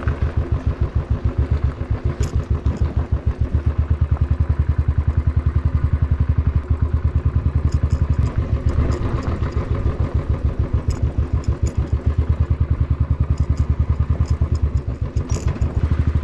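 Royal Enfield Thunderbird 350's single-cylinder engine running while the bike is ridden along a dirt track, giving a steady rhythmic thump. A few short light clicks come through now and then.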